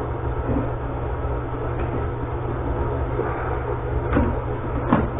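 Steady low hum, with two light clicks near the end as a small plastic toilet fitting is pushed into its grooves.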